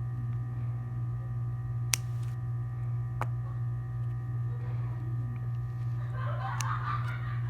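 Bar soap being cut: two sharp clicks, then a crackly, crumbly scraping starting about six seconds in, over a steady low hum.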